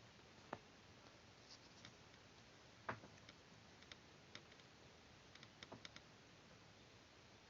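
Faint, scattered clicks and light ticks from handling paper and small crafting tools. The sharpest click comes about three seconds in, and a quick run of small ticks follows between about five and six seconds.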